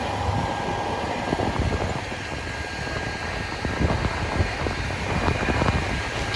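A fire truck's engine running steadily as the tower ladder's aerial is raised, with gusts of wind buffeting the microphone in short low thumps.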